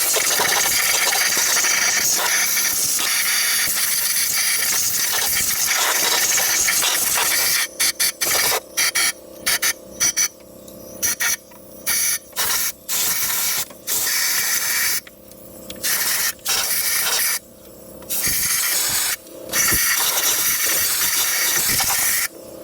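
Compressed-air blow gun hissing as it blows out part of the engine: one long blast for about the first seven seconds, then a run of shorter on-and-off blasts as the trigger is pulsed.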